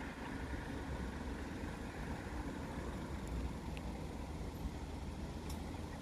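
Diesel engines of a Northern Ireland Railways Class 3000 multiple-unit train running steadily at low speed, a low, even hum.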